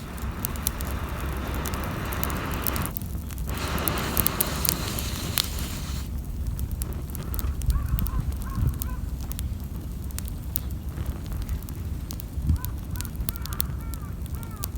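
Small wood fire crackling with sharp pops, over a rushing hiss for the first half and a low rumble. A few short bird calls come about eight seconds in and again near the end.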